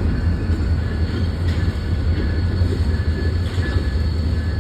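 A long train rolling past: a steady low rumble of the cars on the rails, with a few faint clicks from the wheels.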